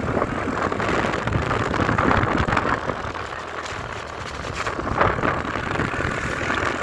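Motorcycle running on the road during a ride, engine and road noise heard from on the moving bike as an uneven rumbling.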